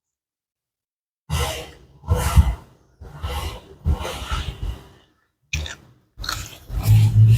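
After about a second of silence, close-miked chewing of tam sua, an Isan pounded salad with rice noodles, in a series of wet mouthfuls with breaths between them.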